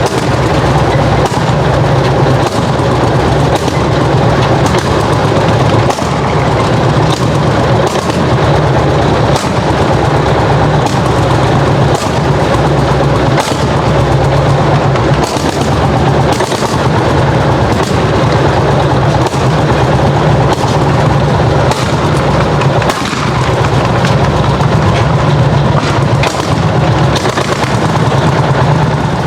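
Single-cylinder hot-bulb tractor engine working hard under plough load, a loud, continuous run of sharp, popping exhaust beats over a deep steady engine drone.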